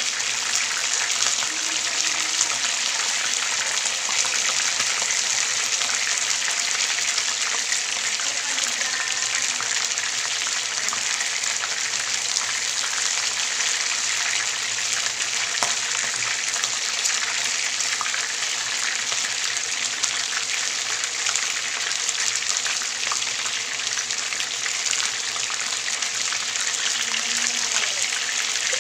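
Flour-dredged chicken pieces shallow-frying in hot oil in a pan: a steady sizzle flecked with fine crackling.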